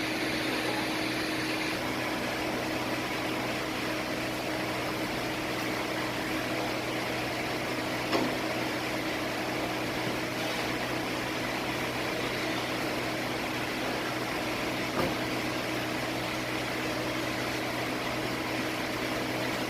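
Steady mechanical hum, with two light clicks, one about eight seconds in and one about fifteen seconds in.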